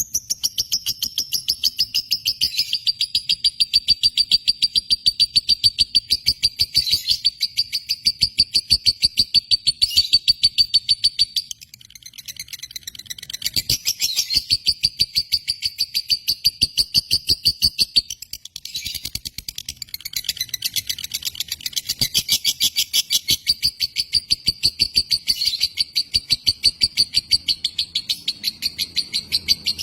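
Lovebird singing a long, rapid chatter: high chirps repeated many times a second in long unbroken runs, with two brief pauses, one about a third of the way in and one a little past halfway.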